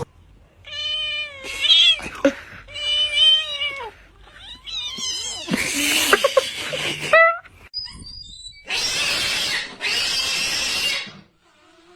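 A cat yowling in several long, drawn-out pitched calls, followed by two steady rushing noises of about a second each near the end.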